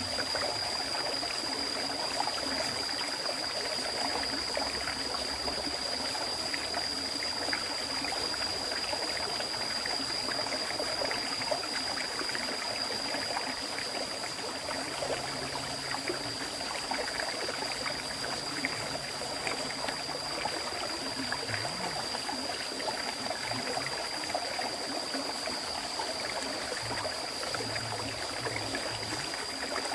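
River water flowing steadily, a continuous rushing and trickling with no break. A thin, steady high-pitched tone sits above the water throughout.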